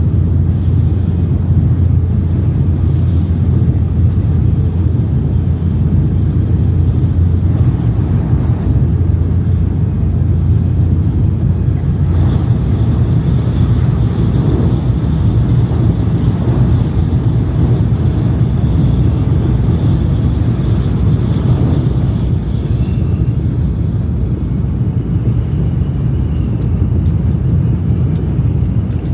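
Shinkansen bullet train running at speed: a steady, loud, low rumble of the ride. A faint high whine sits over it for about ten seconds in the middle.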